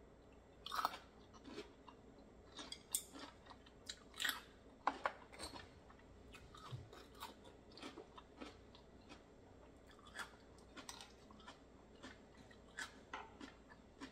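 Close-miked chewing of a raw oyster: irregular wet mouth clicks and smacks, loudest about a second in and again between three and five seconds in.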